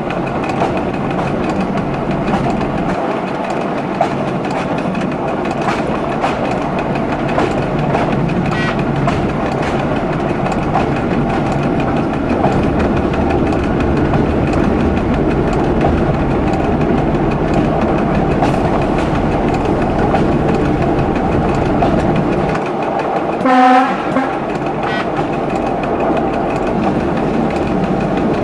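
Local train running along the track as heard from the driver's cab: a steady rumble with wheels clicking over rail joints. Near the end, a short blast of the train's horn.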